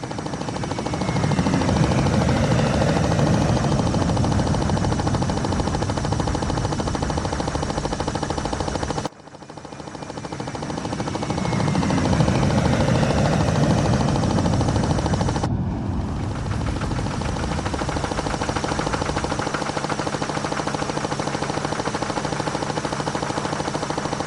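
A loud, rapid, steady mechanical rattle, like a motor or rotor, made of many fast ticks. It cuts off abruptly and restarts about nine seconds in, and changes abruptly again about fifteen seconds in, as if a recording were looped.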